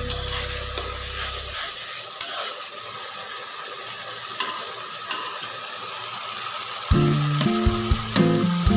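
Chicken curry masala sizzling in hot oil in a metal wok: a steady frying hiss with small crackles. Background music with stepped notes plays over it for the first second and a half and again from about seven seconds in.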